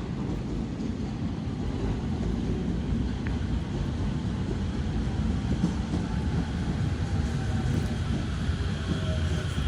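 Electric commuter train rumbling along the tracks past a station platform: a steady low rumble that grows slightly louder. Wind buffets the microphone throughout.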